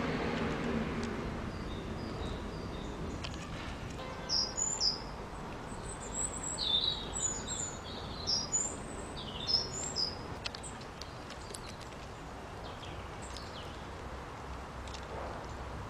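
A small garden songbird singing a series of short, high, varied phrases for several seconds, over a steady low background rumble.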